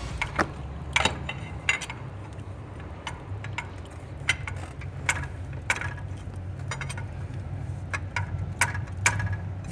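Scattered metallic clinks and clicks of hand tools on engine parts, at irregular intervals over a low steady hum.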